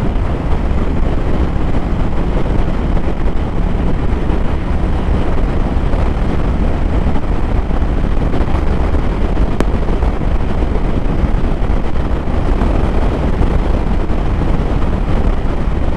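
Motorcycle riding along at road speed: steady wind rush on the microphone with the engine's low, even drone underneath.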